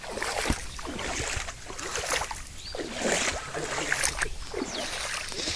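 Bare feet wading and splashing through shallow stream water, in irregular sloshing splashes.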